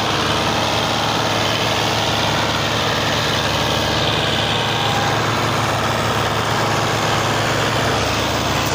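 Belarus tractor's diesel engine running steadily with a low hum.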